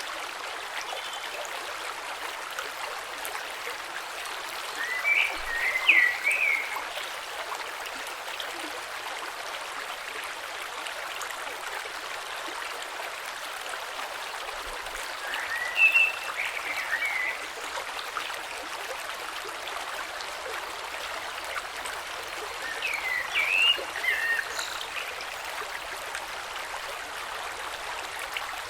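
Shallow creek flowing steadily over stones. A short, high call sounds over the water three times, about ten seconds apart, and these calls are the loudest moments.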